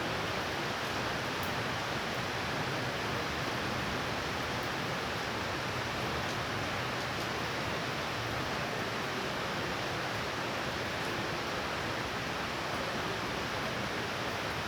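Heavy rain falling in a steady downpour during a thunderstorm, an even hiss with no thunder in it.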